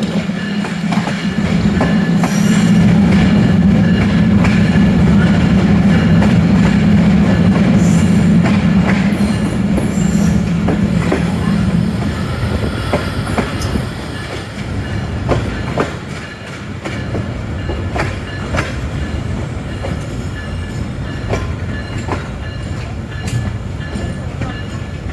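Tezgam Express passenger train running on the rails, wheels clicking over the rail joints. A steady low hum runs under it and stops about halfway through.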